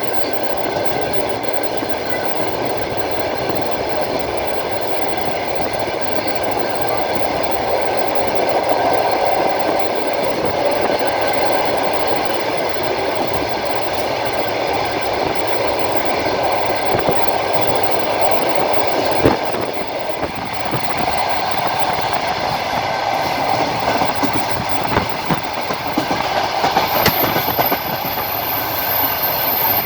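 Passenger train running along the line, heard from inside the carriage at the window: the steady rumble of the wheels on the rails, with a few sharp knocks over rail joints. A high thin whine comes in near the end.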